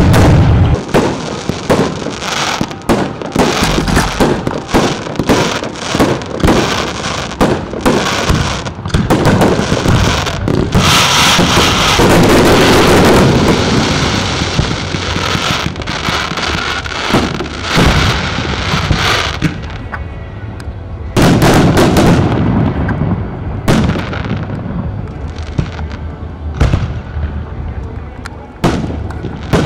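Aerial fireworks display: a rapid, continuous string of bangs and crackles from shells bursting overhead. It is densest and loudest around a third of the way in, with another loud burst a little past two thirds.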